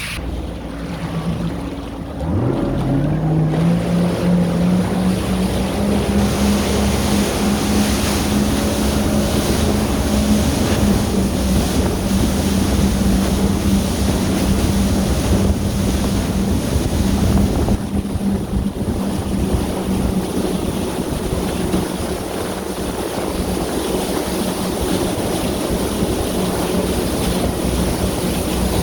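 Yamaha VX Sport jet ski engine revving up about two seconds in, then running steadily at speed, with water rushing past and wind buffeting the microphone.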